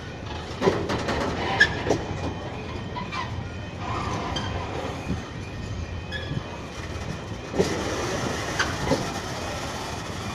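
Train rolling slowly over a level crossing: steady rumble of the wheels, with irregular knocks and clatter at the rail joints and short wheel squeals.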